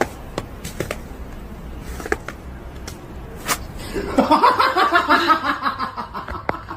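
A few light clicks and taps, then about four seconds in a person laughing in quick pulses for a couple of seconds.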